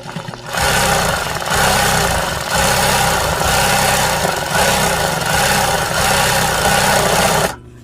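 Sewing machine stitching embroidery in a series of short runs, about one a second, then stopping suddenly near the end.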